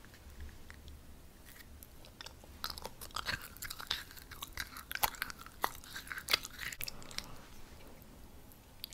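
Close-miked chewing and crunching of a red-and-green striped sweet, with many sharp crunches and wet mouth clicks that come thickest from about two and a half seconds in and thin out near the end.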